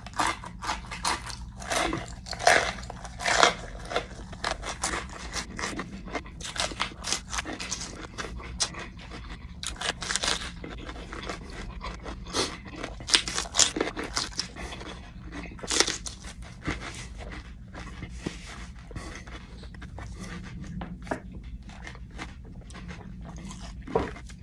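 Close-miked biting and crunchy chewing of a raw poblano pepper stuffed with hot chili peppers, many irregular wet crunches and chews over a steady low hum.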